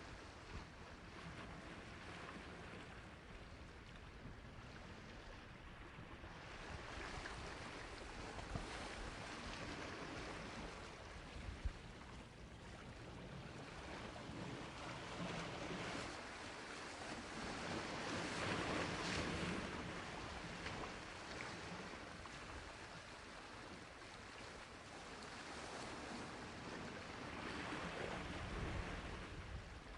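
Sea waves washing onto a shore: a continuous hiss of surf that swells and fades slowly, building to a louder wave about two-thirds of the way through and another near the end. A couple of brief clicks come near the middle.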